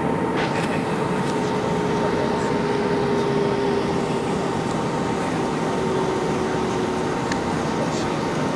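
Steady airliner cabin noise: the even rush of the air-conditioning and engines, with a faint hum and a second tone that slowly sinks in pitch, and a few light clicks near the end.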